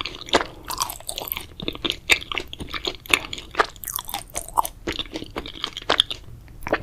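Close-miked chewing and wet mouth clicks of someone eating grape jelly, in a quick irregular run that thins out near the end.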